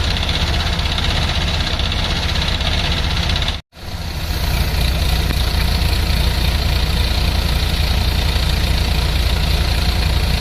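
Diesel engine of a heavy construction machine idling steadily with a low rumble. The sound drops out for an instant just over a third of the way in, then continues unchanged.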